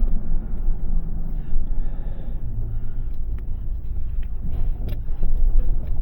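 A vehicle being driven, with a steady low rumble from its engine and road noise.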